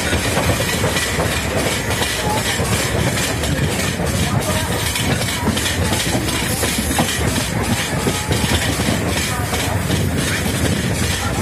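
Passenger train coach running along the track, heard from its open doorway: a steady rumble of wheels on rails with a clickety-clack over the rail joints.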